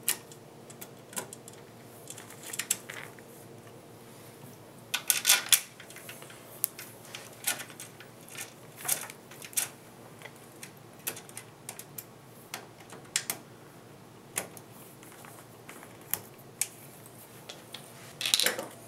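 Irregular light clicks and small metallic clatters of screws being handled and fitted as a case fan is fastened into a computer case, with a louder cluster of taps about five seconds in and again near the end.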